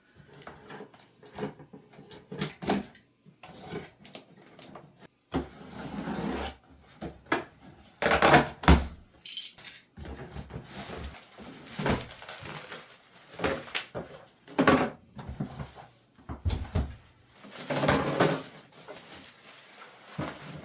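Irregular knocks and clatter of objects being handled and set down in a small room, the loudest about eight seconds in and again near the end.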